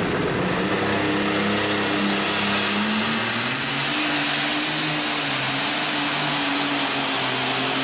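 Alcohol-burning super stock pulling tractor engine running hard under load. About three seconds in, the engine note edges up and a high whine rises, then holds steady.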